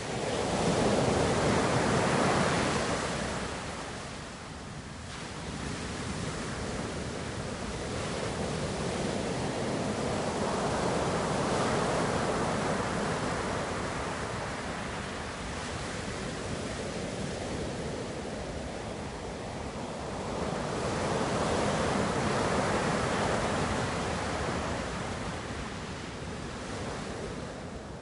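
Ocean waves breaking and washing on the shore, a steady rush of surf that swells three times, early, around the middle and about three quarters through, and eases between.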